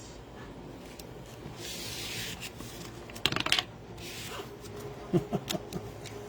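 Trading cards being handled: a rustling slide about two seconds in, a quick clatter of small clicks a little after three seconds, and a few more light clicks near the end.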